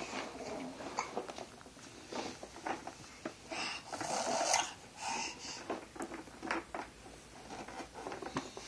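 A toddler's breathing and soft snorts, with a few light knocks and rattles.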